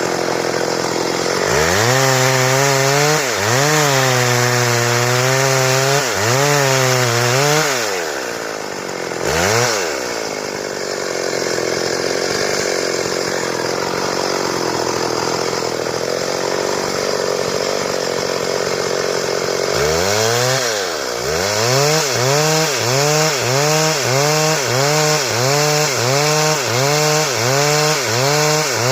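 Stihl chainsaw running while sawing wood into boards. Its engine speed dips and recovers a few times, holds steady at high revs through the middle, then rises and falls rhythmically, a little over once a second, near the end.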